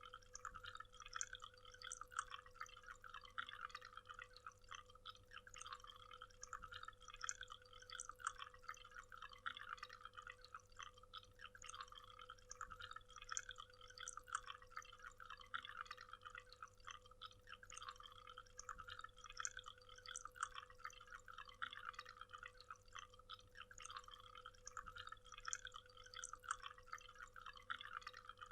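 Waterfall: water splashing and spattering steadily and faintly, without a break, over a faint steady hum.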